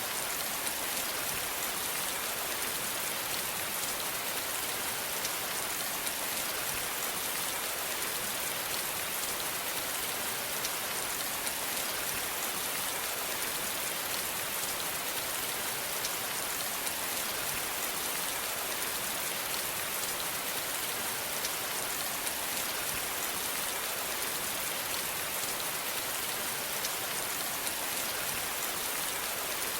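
Steady rain falling on a surface, an even hiss with fine patter of individual drops, unchanging throughout.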